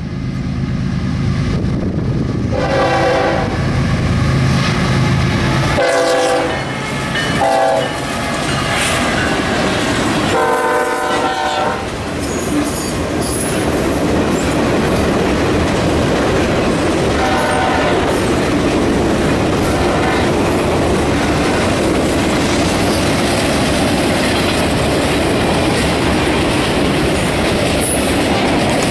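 Norfolk Southern freight train's diesel locomotive sounds its air horn in a crossing pattern: two long blasts, a short one and a final longer one, over a deep engine rumble. A long string of freight cars then rolls past with steady wheel clatter, with a couple of fainter horn notes.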